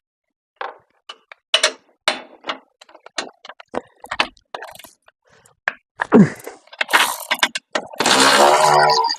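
Metal tools and parts clinking and knocking as they are handled during ATV repair work. Near the end comes a buzzy mechanical burst about a second long.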